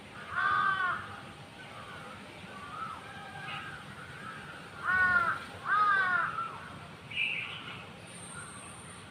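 A crow cawing three times, harsh arched calls, the first under a second in and two more in quick succession about five seconds in, with fainter short bird chirps between them.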